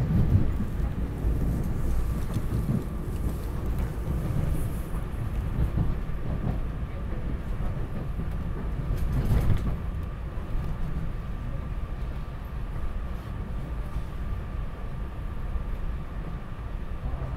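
SEPTA Regional Rail electric train heard from inside the passenger car: a steady low rumble of the train running on the track, with a thin steady whine above it. The rumble swells briefly about nine seconds in and eases a little toward the end.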